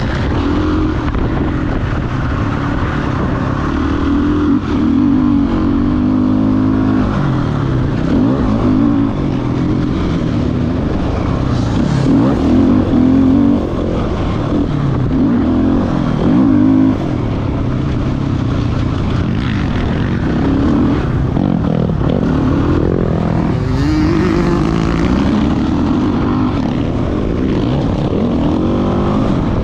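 Motocross dirt bike engine running hard, its pitch rising and falling again and again as the throttle is opened and closed.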